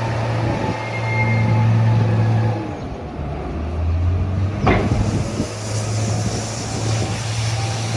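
Engine running steadily with a low drone, its pitch dropping for a couple of seconds about halfway through, with one sharp click about five seconds in.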